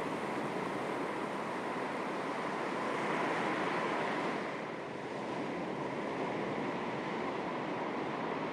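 Small sea waves lapping and washing on the shore, a steady wash with a slight swell about halfway through, over a light breeze.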